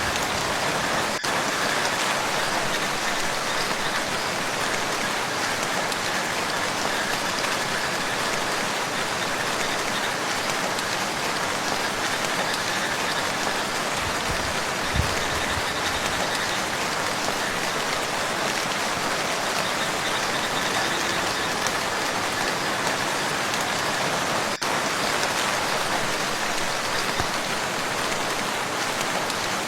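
Steady rain falling on a lake, an even hiss of drops on the water, with a brief low thump about halfway through.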